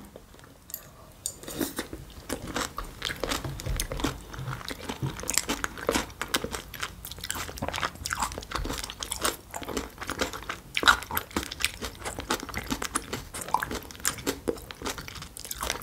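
A person chewing crunchy raw vegetable salad (radish, cucumber, mung bean sprouts, microgreens): a quick, uneven run of small crisp crunches, starting about a second and a half in.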